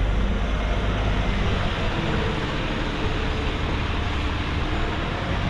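Steady rainy city-street ambience: a continuous low traffic rumble under an even hiss of rain.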